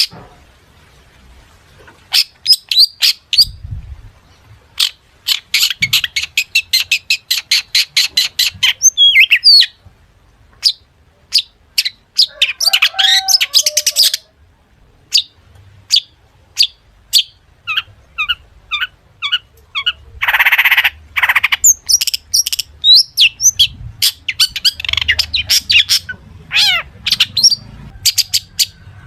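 Long-tailed shrike (cendet) singing a loud, varied song of sharp chirps, quick trills and fast runs of repeated notes, full of phrases mimicked from other birds. A harsh rasping screech comes about two thirds of the way in.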